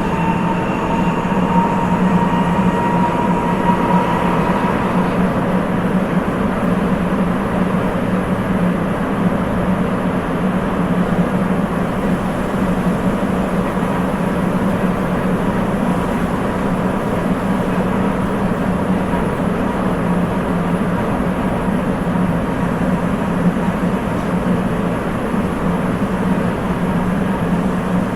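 Sapporo Municipal Subway 8000 series rubber-tyred train running between stations, heard from inside the car: a steady, dense rolling noise. A faint motor-inverter tone rises slightly over the first few seconds and then fades into it.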